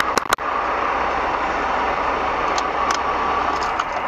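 Steady road and engine noise of a moving car, heard from inside the cabin, with a few sharp clicks in the first half second.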